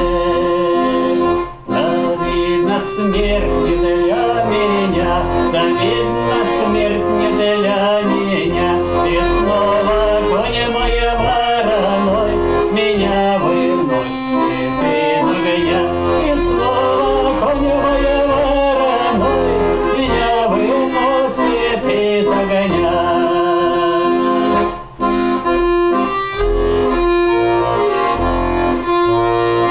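Accordion playing an instrumental passage of a Russian folk song, with long held chords under the melody and two brief pauses between phrases.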